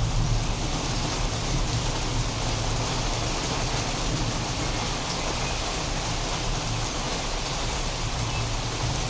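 Steady, heavy rain falling. The low rumble of a thunderclap dies away in the first second.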